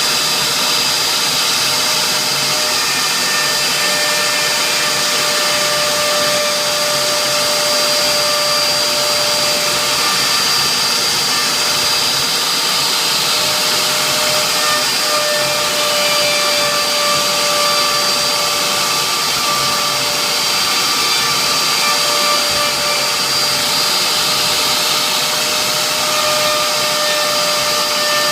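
CNC router spindle running steadily while engraving a signature board, a continuous whine over even machine noise.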